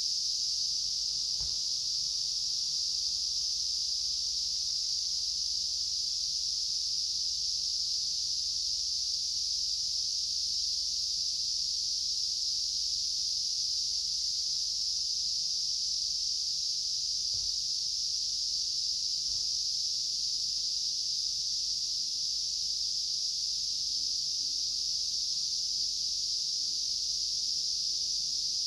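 Steady, high-pitched chorus of summer insects, unbroken throughout, with two faint low knocks: one near the start and one a little past halfway.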